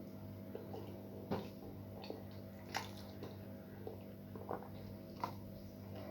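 Close-up eating sounds: chewing with scattered wet mouth clicks and smacks, three of them louder than the rest.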